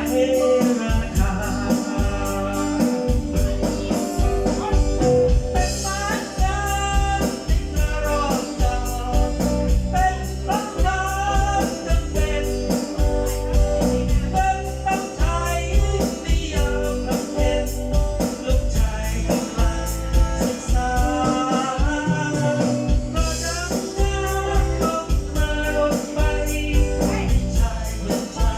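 A song with a singer over a steady, heavy bass beat, played loudly through an outdoor PA system of subwoofer and hanging speaker cabinets during a warm-up test.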